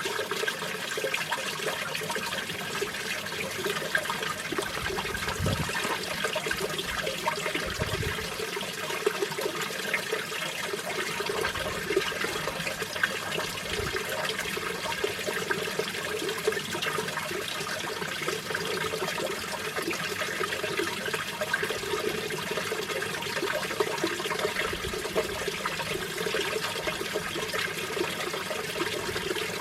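Mountain stream water flowing and splashing over rocks, a steady, unbroken rush with a few brief low rumbles in the first half.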